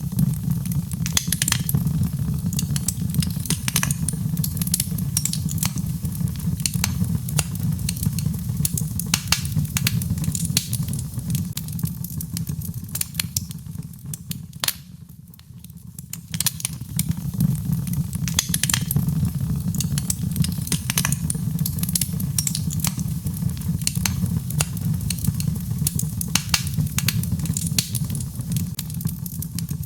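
Birch logs burning in a fireplace: a steady low rumble of flame with frequent sharp crackles and pops. The fire quietens briefly about halfway through, then picks up again.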